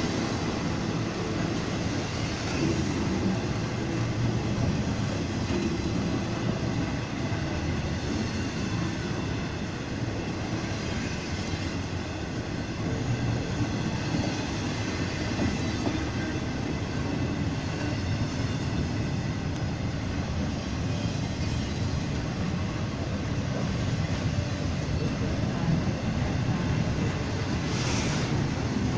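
A train rolling past on the track: a steady, unbroken rumble of wheels and railcars.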